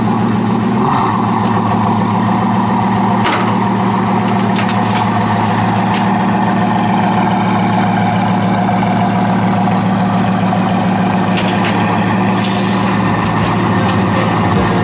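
A car engine running steadily at a constant speed, with no revving.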